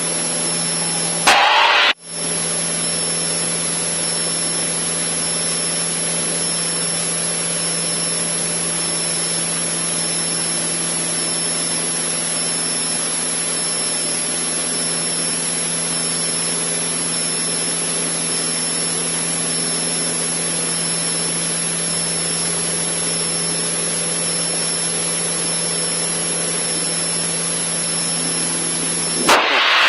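Steady drone of a Cessna 152's four-cylinder Lycoming engine and propeller at climb power, heard inside the cabin, with one brief louder burst about a second and a half in.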